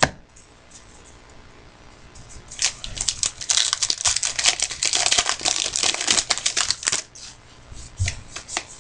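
Trading card pack wrapper being torn open and crinkled by hand: a dense run of crackling from about two and a half seconds in to about seven seconds, after a single sharp click right at the start.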